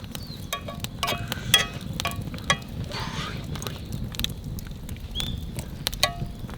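A quick, irregular series of sharp clinks and taps, several ringing briefly like struck metal, over a low steady rumble.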